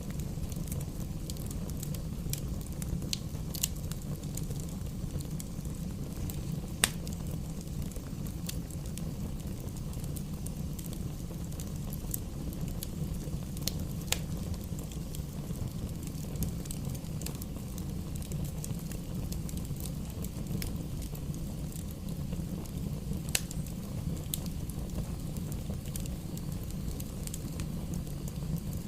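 Bonfire burning: a steady low rush of flames with scattered sharp crackles and pops from the burning wood, the loudest pop about seven seconds in.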